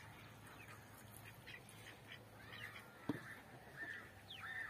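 Faint bird calls, a series of short calls in the second half, with a single sharp knock about three seconds in.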